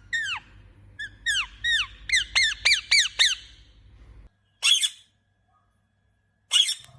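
A bird squawking: a quick series of short calls that each drop in pitch, about three a second, followed by two short harsh calls.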